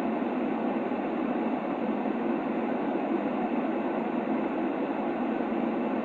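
Steady white noise for sleep, a dull, even hush with its weight in the lower-middle range and little deep bass or high hiss, unchanging throughout.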